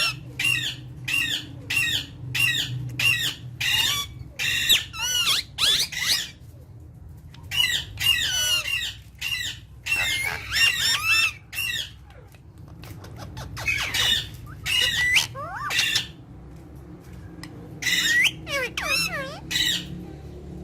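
Pet parrots squawking: runs of short, shrill calls, a couple a second, in bursts broken by short pauses.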